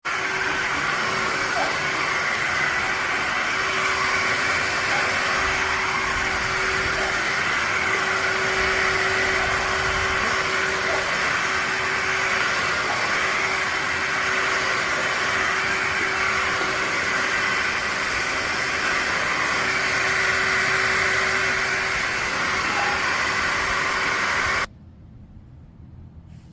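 Shark HydroVac MessMaster cordless wet-dry vacuum mop running steadily: a constant motor hum with a steady hiss of suction and brush roll. It cuts off suddenly near the end.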